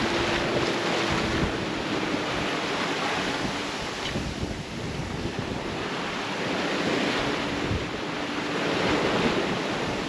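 Wind and sea aboard a sailboat under sail in a fresh breeze: a steady rush of water and wind that swells and eases every few seconds, with wind buffeting the microphone. A faint steady hum sounds in the first couple of seconds and comes back past the middle.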